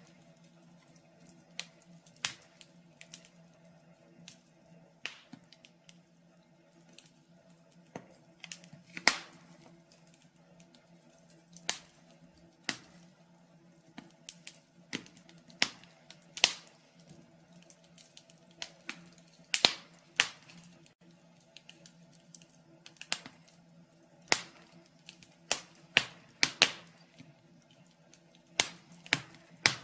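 Wood fire crackling in a fireplace, with irregular sharp pops and snaps, a few much louder than the rest, over a faint steady hum.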